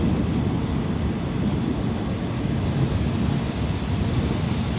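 Passenger train running along the track, a steady low rumble of wheels and carriage heard at an open carriage window, with a faint high wheel squeal coming in near the end.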